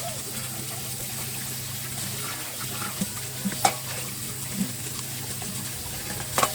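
Water running from a kitchen tap into the sink, with a few sharp clinks of dishes being handled, the loudest about halfway through and near the end.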